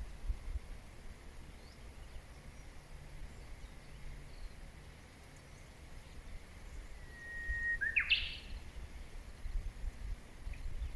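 A bird singing once, about seven seconds in: a held whistled note lasting about a second that breaks into a quick upward flourish. A few faint chirps come before and after it, over a low steady rumble.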